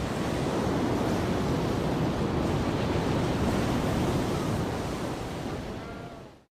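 Ocean waves and surf washing steadily, then fading out just before the end.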